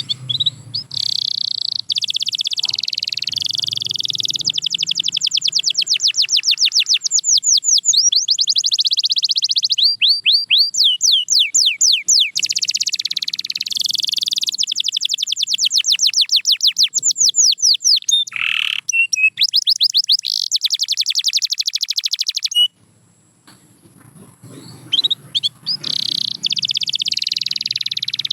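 Canary singing long rolling trills, fast runs of repeated high sweeping notes that change speed from phrase to phrase. It breaks off briefly about 23 seconds in, then starts again.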